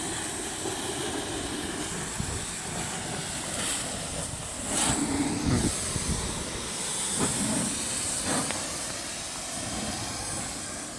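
Water spraying hard onto a tractor during washing: a steady hiss that swells louder a few times midway through.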